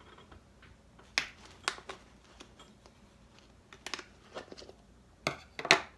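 Scissors cutting a hole through a cup: irregular sharp snips and crinkles, the loudest pair near the end.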